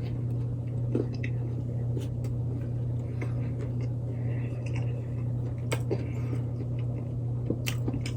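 A person chewing food with a few sharp mouth clicks, over a steady low hum.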